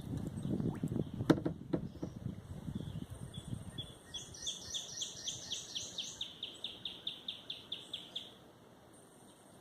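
A songbird sings a fast, even series of high repeated chirps, about four or five a second, starting about four seconds in and lasting roughly four seconds. Before it there is low rumbling handling noise with two sharp clicks.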